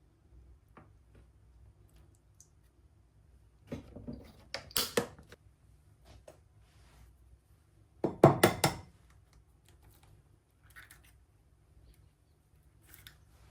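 Kitchenware being handled: two short bursts of clattering knocks and clinks, one about four seconds in and a louder one about eight seconds in, with a few faint taps between.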